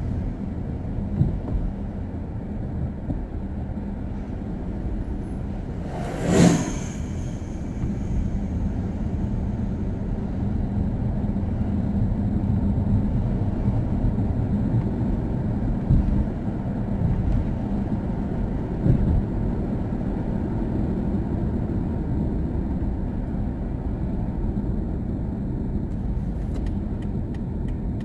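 Steady low road and engine rumble heard from inside a moving car. About six seconds in there is one sharp knock with a short ringing tail, and near the end a run of faint ticks.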